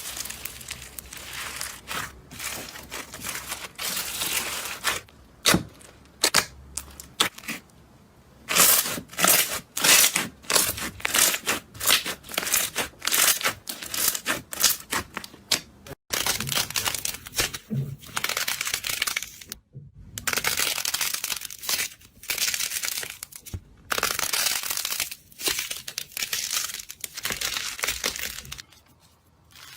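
Slime being pressed, poked and stretched by hand, giving many short crackling and popping sounds in quick succession.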